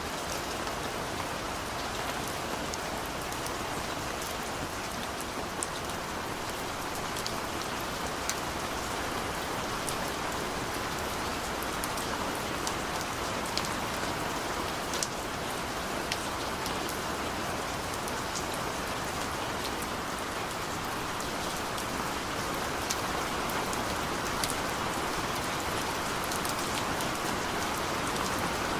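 Steady rain falling, a dense even hiss with scattered sharp ticks of individual drops hitting a surface.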